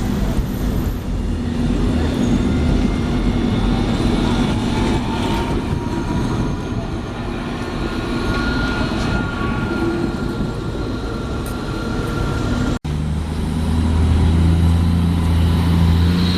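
Vehicles running: a steady low rumble with a faint high whine, which cuts off sharply about 13 seconds in and gives way to a deeper, steady engine hum.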